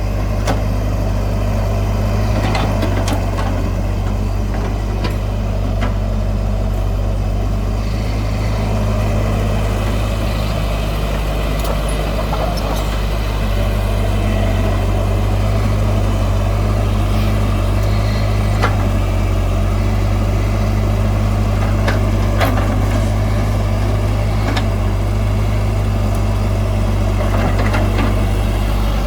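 Heavy diesel earthmoving machinery running steadily with a low, even engine drone, broken now and then by brief sharp knocks.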